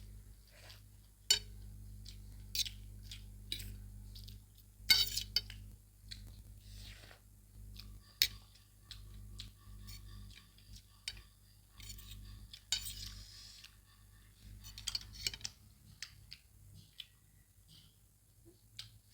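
Scattered clinks and scrapes of utensils against plates while noodles are being eaten, over a low steady hum that fades out about fifteen seconds in.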